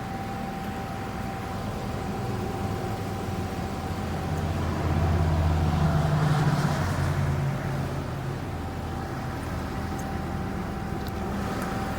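A motor vehicle engine running steadily with a low hum, swelling louder for a few seconds around the middle before settling back.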